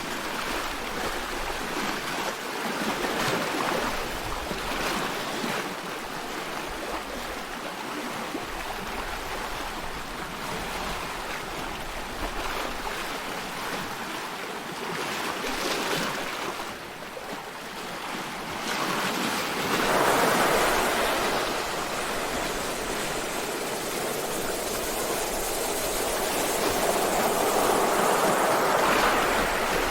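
Sea waves: a continuous rush of water that swells and eases in slow surges, loudest about two-thirds of the way through and again near the end.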